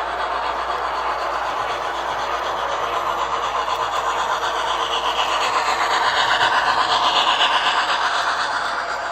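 HO scale model steam locomotive running on its layout track, with a fast, steady chuffing rhythm; it grows louder in the later middle as the engine passes close, then eases off near the end.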